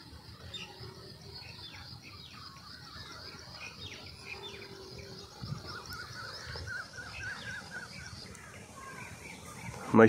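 Small birds chirping and calling over quiet outdoor background noise, with a quick run of repeated chirps a little past the middle.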